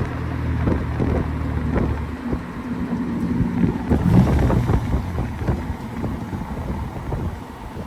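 A motor vehicle engine running at a low, steady pitch, with wind on the microphone and scattered small knocks.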